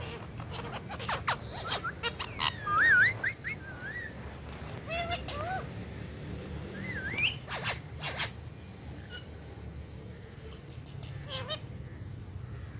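Indian ringneck parakeet making short whistled calls that glide up and down in pitch, the loudest about three seconds in, among a scatter of sharp clicks and taps.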